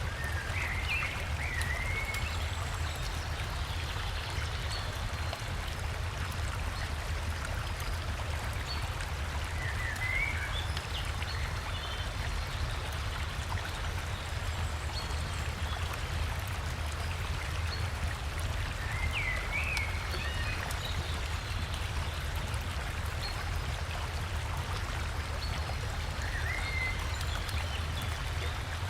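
Steady rushing of a river and small waterfall, with a deep low rumble under the splashing. A bird gives a short chirping phrase four times, about every nine seconds.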